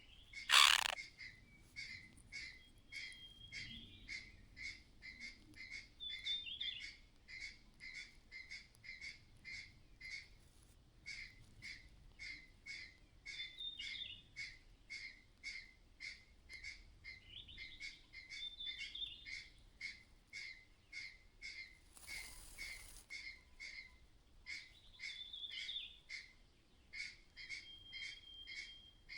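A mother bird giving a repeated clattering alarm call, sharp clicking notes about three a second, with a few short warbled calls mixed in: a sign she senses danger near the nest. A loud sudden sound comes just after the start and a brief rustle about two-thirds of the way through.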